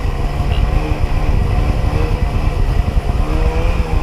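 A 1994 Sea-Doo XP jet ski's 80 hp two-stroke engine runs steadily under way at cruising speed, its pitch wavering slightly over a heavy low rumble.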